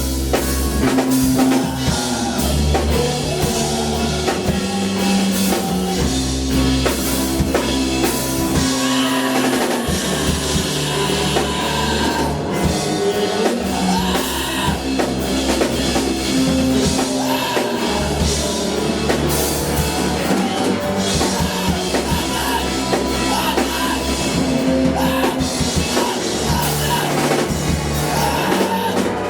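Live band music with a drum kit and sustained bass notes, in a rock style.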